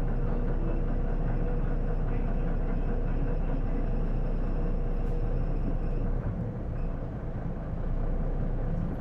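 Cabin running sound of an Isuzu PJ-LV234L1 city bus: engine and drivetrain noise with a steady whine over it. The sound drops about six seconds in.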